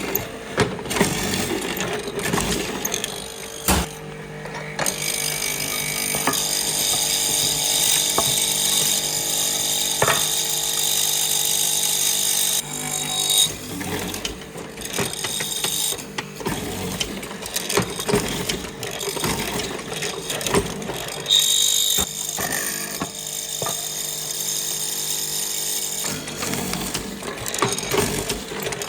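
Woodworking power tools running, with a steady hum, a longer stretch of harsh noise from a tool cutting or working wood, and scattered sharp knocks and clicks from handled wood.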